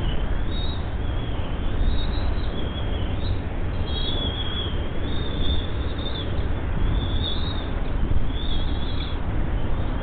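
Birds chirping in short, thin, high calls that recur every second or two, over a steady low rumble.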